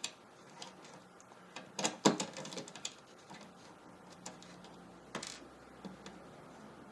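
Scattered small clicks and scrapes of a screwdriver and fingers working the screw that holds an M.2 SSD to a motherboard, with a slightly longer scratchy scrape about five seconds in.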